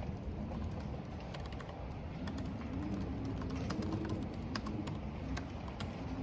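Computer keyboard typing in irregular clicks over a steady rush of wind and rain, with the wind moaning in a low, wavering tone from about two seconds in.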